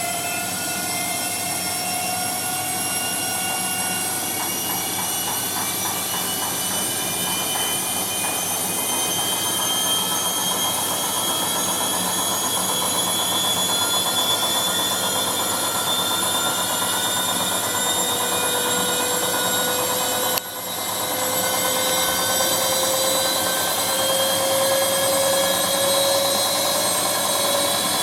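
Bosch MAXX 6 washing machine spinning: a steady motor whine with several tones that drift slowly in pitch and climb over the last several seconds. The sound dips briefly about twenty seconds in.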